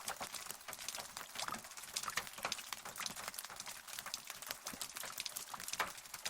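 Rain pattering: a steady hiss with many sharp, irregular drop ticks.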